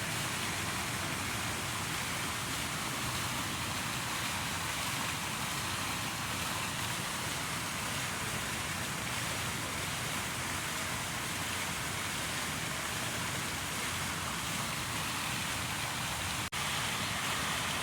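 Steady, even rushing noise with no distinct events, cutting out for a moment about sixteen and a half seconds in.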